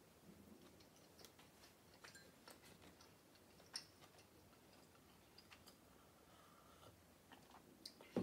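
Faint close-up chewing of a bread-and-cheese canapé, with scattered small mouth clicks and one sharper click about four seconds in.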